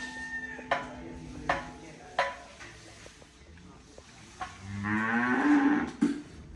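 A dairy calf mooing once, a loud call of about a second and a half that rises in pitch. It is preceded by several sharp knocks.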